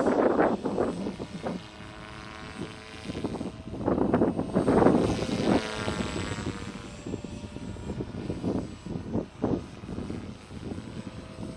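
Beam Acro480 electric RC helicopter flying freestyle: the motor and main rotor hum steadily with a pitch that glides up and down, and loud rotor whooshes surge at the start and again about four to five and a half seconds in.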